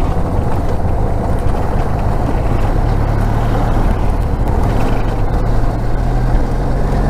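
Motorcycle engine running at steady cruising speed, with heavy wind noise buffeting the rider's microphone.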